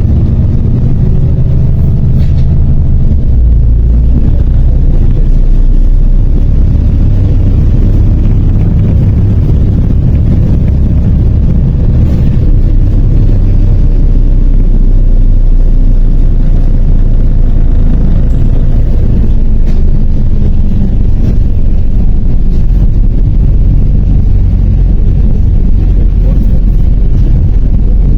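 MAZ 103 city bus on the move, heard from inside: steady engine and road noise with a loud low rumble.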